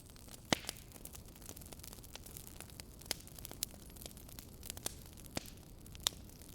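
Wood fire burning in a fireplace: a steady low rush of flame with irregular sharp crackles and pops of burning logs, the loudest pops about half a second in and near the end.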